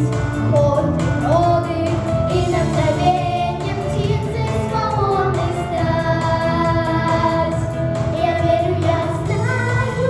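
Young girls' voices singing a pop song with long held, wavering notes over a backing track.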